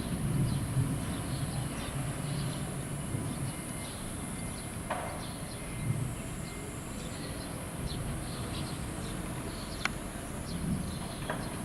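Light-vented bulbul calls: many short, high chirps, with a few louder calls about five, ten and eleven seconds in, over a low rumble.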